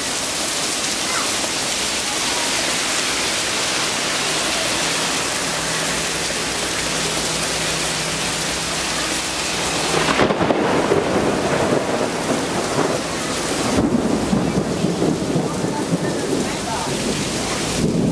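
Steady heavy rain falling. About ten seconds in, and again a few seconds later, uneven low rumbling swells up over the rain.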